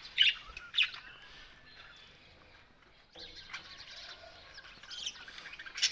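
A flock of budgerigars chattering and calling, with two sharp, loud calls just after the start and another near the end.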